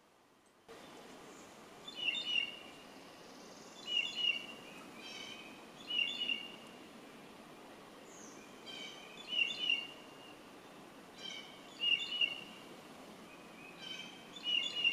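Songbird singing a short phrase over and over, about every two seconds, over a steady outdoor hiss that starts just under a second in.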